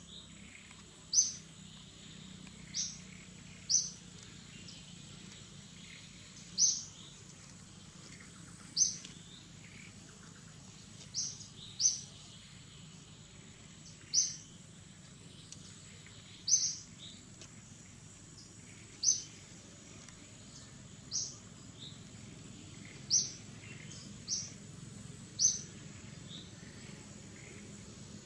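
A bird repeating a short, high chirp about every one to three seconds, over faint steady background noise.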